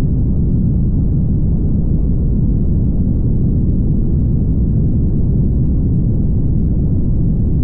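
Steady low rumble of a car driving at highway speed: road and wind noise, with no changes or distinct events.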